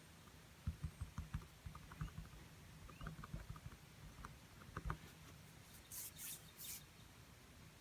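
Paintbrush tapping and dabbing on a small canvas: soft, irregular taps, with three short hissy swishes about six seconds in.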